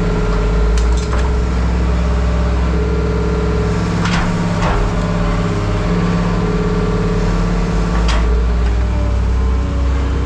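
An engine running steadily at a constant speed, with a few sharp knocks about a second in, around the middle and near the end.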